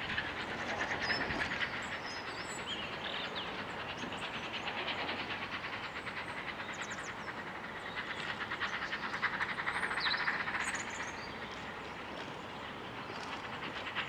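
A train running on the line out of sight: a steady rushing sound with a fast, even beat, swelling louder twice. A few short high chirps sound over it.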